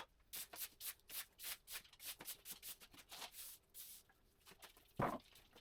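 Hand sanding: sandpaper rubbed back and forth over a board in quick strokes, about four a second, with one louder knock about five seconds in.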